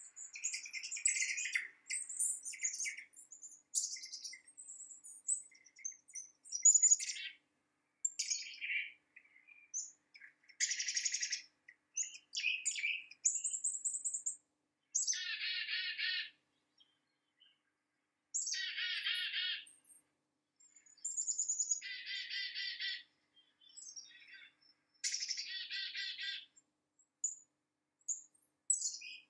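Wild birds calling: scattered short, high chirps, then a buzzy trill about a second long repeated four times in the second half.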